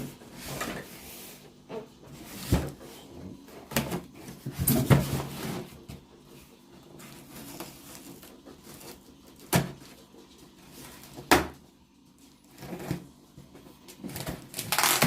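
A box of motorized bicycle kit parts being opened and unpacked by hand: a string of separate knocks and bumps amid rustling of packaging.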